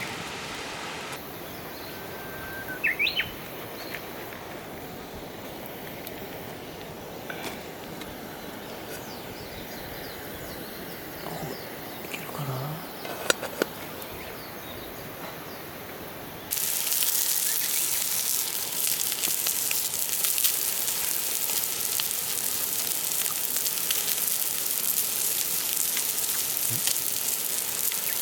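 Steady outdoor ambience with a short chirp and a few light knocks. About two-thirds of the way in, it gives way to a louder, even sizzling hiss full of fine crackling ticks.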